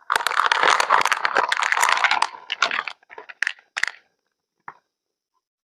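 Dense crackling, crinkling noise for about two seconds, then a few short separate crunches and one last faint one near the end.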